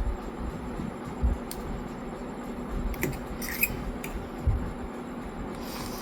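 A person eating noodles: soft wet chewing noises with a few light clicks and a couple of low bumps.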